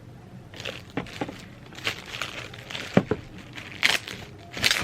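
Cosmetics packaging being handled and opened: scattered crinkling rustles with several sharp clicks and taps, the sharpest about three seconds in.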